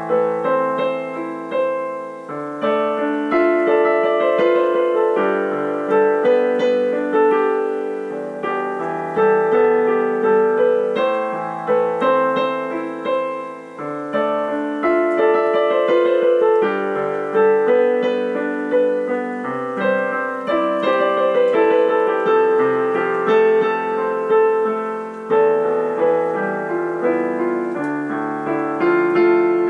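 Background piano music: a gentle melody with chords, notes struck and fading.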